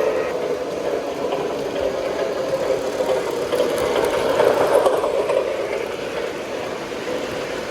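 O scale three-rail model train running on the layout: a steady mechanical rumble of wheels on track and motor, louder about four to five seconds in.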